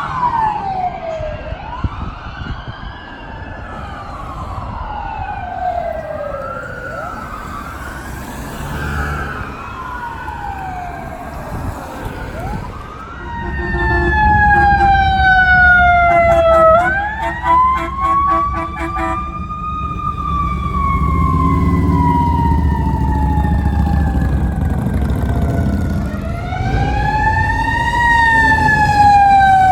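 Emergency vehicle sirens wailing, several overlapping rising-and-falling wails at first; about halfway through a louder siren arrives with the heavy engine rumble of a large vehicle passing close, its wail rising and falling slowly.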